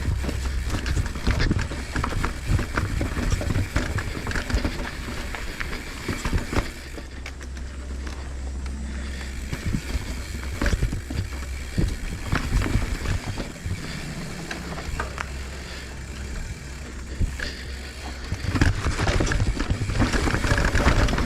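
Mountain bike rattling and clattering down a rough, rocky technical trail, with many sharp knocks as the wheels and frame hit rocks and roots, over a steady low wind rumble on the helmet camera's microphone. The clatter gets rougher and louder near the end.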